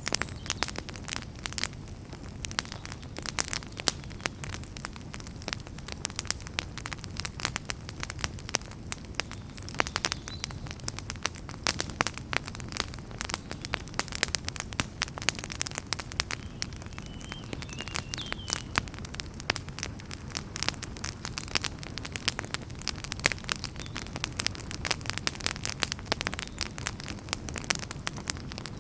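Campfire of burning firewood crackling: dense, irregular sharp pops and snaps over a steady low rumble of the flames.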